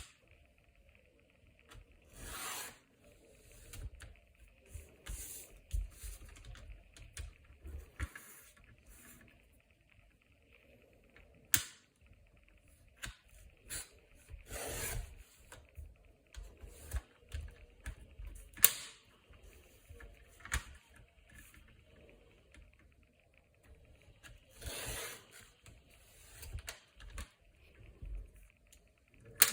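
Hand crafting sounds while making a fridge magnet: scattered small clicks and taps, two sharp snaps, and three short hissing swishes.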